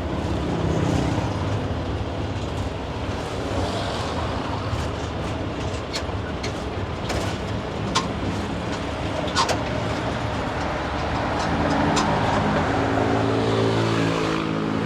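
Road and engine noise while riding in a songthaew, a red pickup-truck shared taxi, with a steady low rumble throughout. A few sharp clicks come in the middle. From about eleven seconds in, an engine note rises in pitch as a vehicle accelerates.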